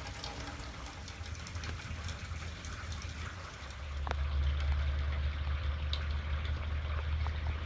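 Rain falling and dripping, many small patters. About four seconds in, a steady low rumble comes in and becomes the loudest thing.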